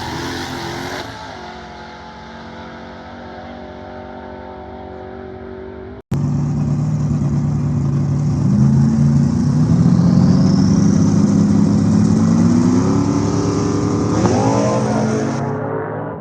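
Drag race car engines running. After about six seconds one gets much louder and its pitch climbs steadily as the car accelerates hard down the strip, then it trails off near the end.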